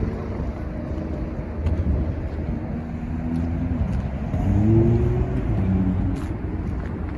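Street traffic rumble as a motor vehicle passes, its engine rising in pitch as it accelerates, loudest about five seconds in and then fading.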